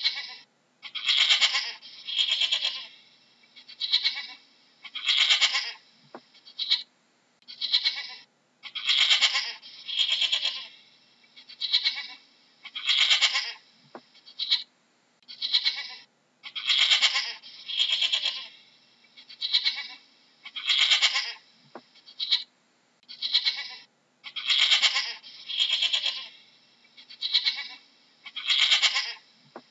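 Goats bleating over and over, short calls about one a second with brief gaps between them.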